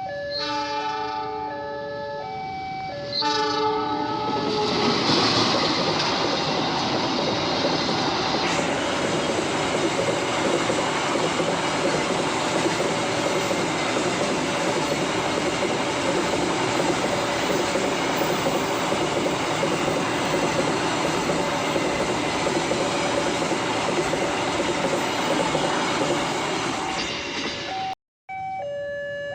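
Electronic level-crossing alarm alternating between two pitches, then a train passing close, its horn sounding and its wheels running and clattering over the rails for over twenty seconds. The train sound cuts off suddenly near the end, and the alternating crossing alarm returns.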